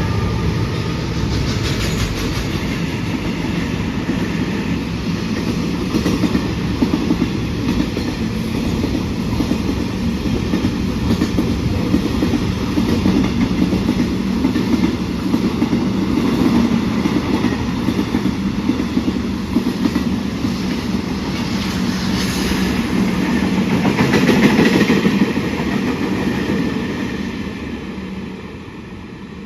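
A train rolling past, its wheels clicking over the rail joints, fading away near the end.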